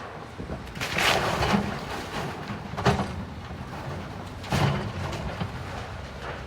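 Demolition of a building by heavy machinery: three crashes of breaking, falling debris, a longer one about a second in and sharper ones near three and four and a half seconds in, over the low, steady running of the machine's engine.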